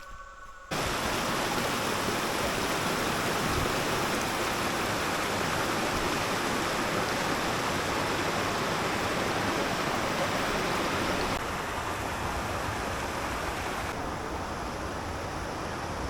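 Rushing white water of a mountain creek or falls, a steady dense hiss that cuts in abruptly about a second in and drops a little in level twice near the end.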